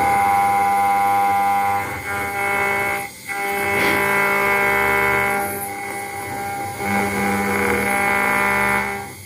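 CNC router spindle whining steadily as it engraves a brass plate, its tones shifting as the cut changes, with a brief dip about three seconds in and again near the end.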